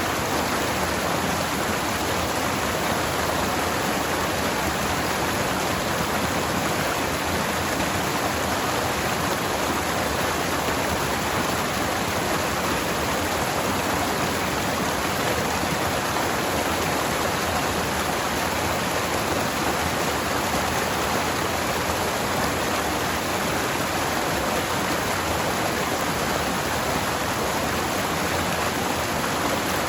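Forest stream flowing over rocks, a steady, even rush of water.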